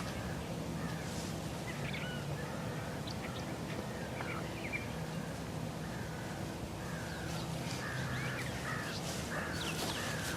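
Wild birds calling outdoors: short calls repeating on and off, coming more thickly near the end.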